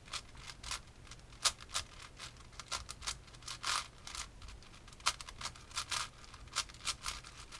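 Plastic layers of a large twisty-puzzle cube clicking and clacking as they are turned in quick, irregular strings of moves: a parity algorithm being run.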